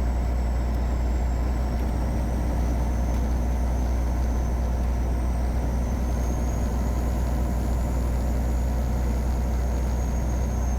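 Caterpillar 3406E inline-six diesel in a 1999 Freightliner Classic running steadily on the road, a deep even drone. A thin high whine above it slowly rises and falls in pitch.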